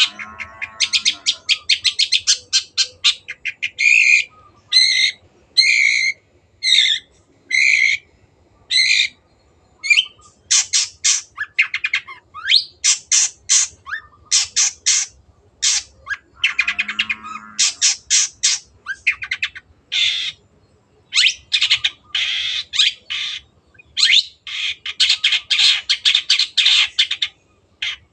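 Long-tailed shrike singing: rapid strings of short, harsh, high notes, with a stretch of separate calls about one a second a few seconds in.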